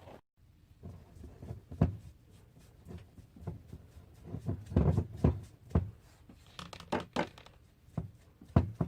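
A sponge brush dabbing and wiping acrylic paint onto a cloth sock stretched over a form, making irregular taps and scrapes, with a cluster of them about halfway through.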